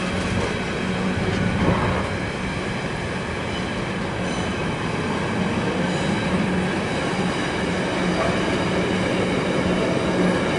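Container flat wagons of a passing freight train rolling along the track: a steady rumble of steel wheels on the rails.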